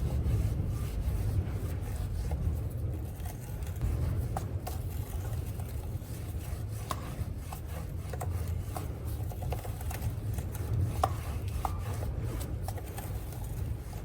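Cloth rubbing along a motorcycle drive chain as it is wiped clean all the way around, with a steady low rumble and scattered light clicks.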